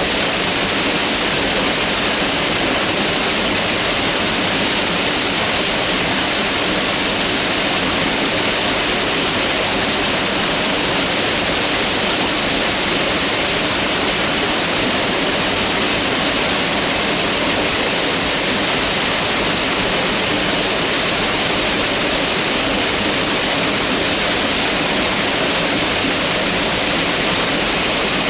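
Mountain river rushing steadily over rocks, a constant hiss of flowing water.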